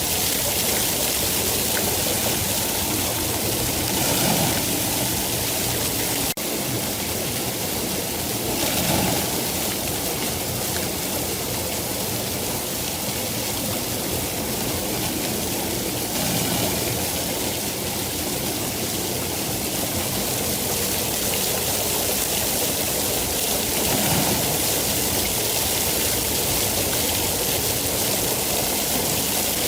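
Steady heavy rain, a continuous hiss with a few soft swells in loudness and a brief click about six seconds in.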